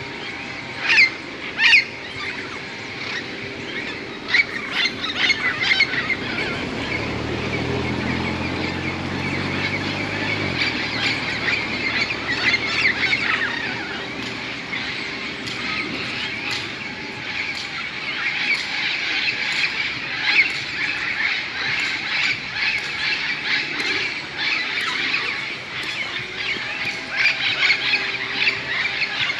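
A large flock of parrots squawking continuously as they gather to roost, many calls overlapping, with two loud, close screeches about one and two seconds in.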